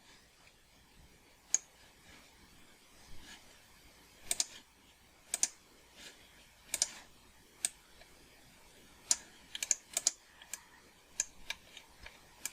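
Computer mouse and keyboard clicks, sharp and irregular, some in quick pairs, as someone works a 3D modelling program.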